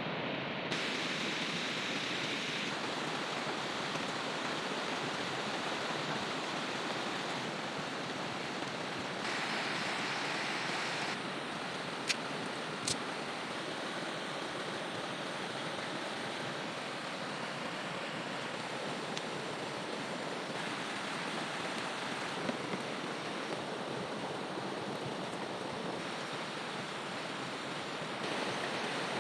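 Flooded river rushing steadily, fast and swollen with rain water, the tone stepping slightly a few times. Two sharp clicks come about twelve seconds in.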